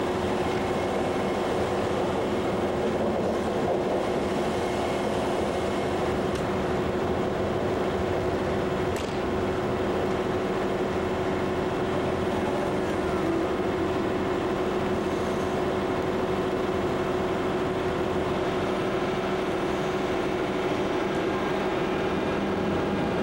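German ICE high-speed train running steadily: an even rumble with a constant hum that does not change.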